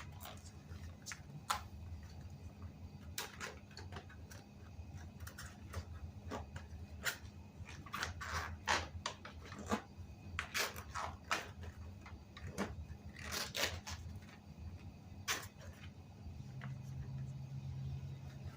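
Irregular clicks, taps and short scrapes of hand work, over a low steady hum.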